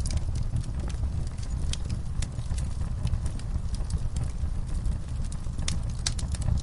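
Wood fire burning in a fireplace: a steady low rumble with irregular sharp crackles and pops, several of them close together near the end.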